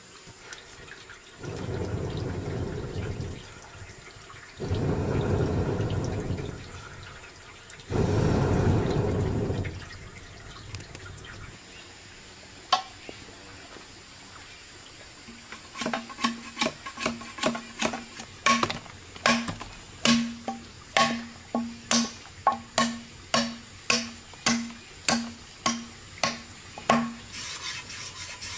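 Three rushes of water, each a second or two long, like water being poured or sloshed out. Later comes a steady run of sharp knocks, about one and a half a second, each with a short ring.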